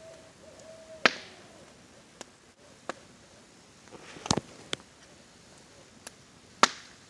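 Campfire wood popping and crackling: about eight sharp pops, three of them loud, over a faint hiss of rain. An owl hoots faintly in the first second.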